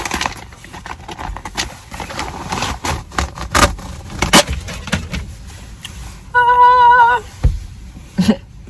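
Crinkling and handling noise of a steering wheel cover's packaging being opened, with many sharp clicks and rustles. About six seconds in, a loud steady tone sounds for just under a second.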